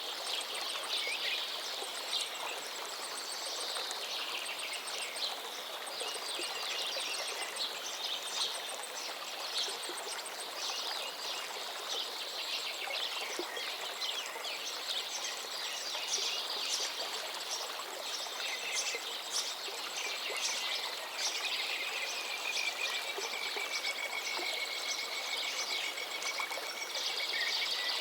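A river stream flowing steadily, with many birds chirping and singing over it throughout, and one long, slightly falling drawn-out call in the second half.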